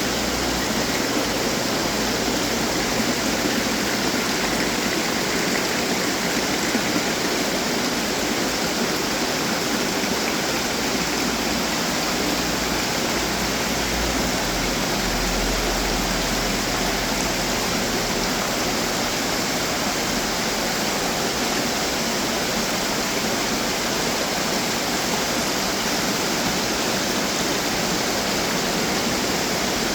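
Steady splashing and trickling of running water from decorative fountains.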